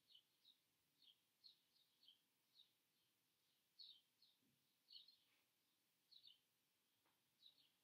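Faint bird chirping: short, high chirps that slide downward, often in pairs, repeating every second or so.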